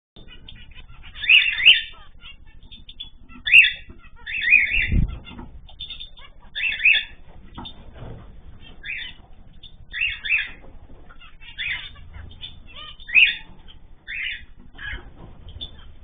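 Ornamental pet birds calling: short chirps repeated every second or so, often in quick pairs, with one low thump about five seconds in.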